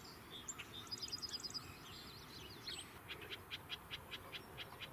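Faint wild birdsong: a quick high twittering phrase about a second in, then a steady run of short high chips, about five a second, from about three seconds in.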